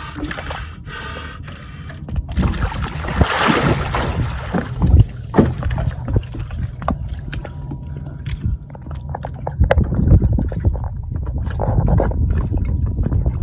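Water sloshing and splashing against a sailboat's hull, with wind buffeting the microphone; it grows louder about two seconds in, with sharp splashy peaks.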